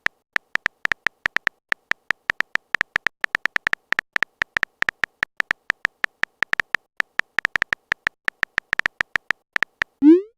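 A chat-typing sound effect: a rapid, irregular run of short, high electronic blips, several a second, like keystrokes. Near the end comes a quick rising swoosh.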